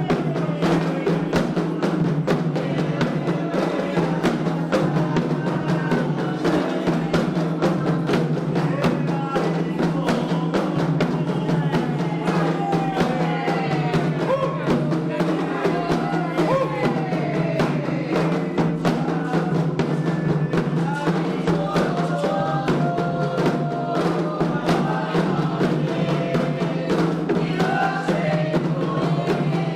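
Candomblé ritual music: atabaque hand drums beating a steady, fast rhythm, with voices singing a chant over them.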